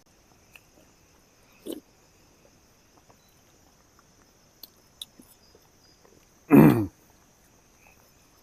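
Crickets chirping steadily, with a few faint clicks. About six and a half seconds in, a man gives a short, loud grunt, a reaction to a mouthful of strong hot pepper sauce.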